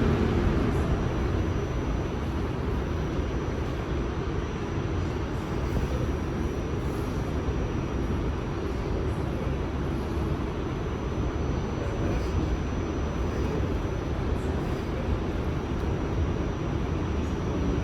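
New York City subway train running steadily between stations on the N line, a continuous rumble of wheels on rail heard from aboard the car, with a faint steady high whine.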